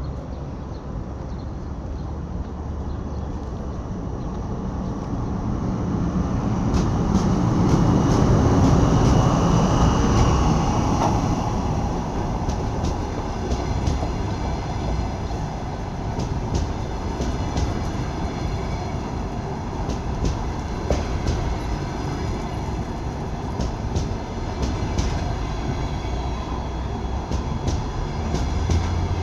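EP20 electric locomotive and its double-deck passenger train passing: the noise builds to its loudest about 8 to 10 seconds in as the locomotive goes by, with a faint high whine. The carriages then roll past steadily, with wheels clicking over the rail joints.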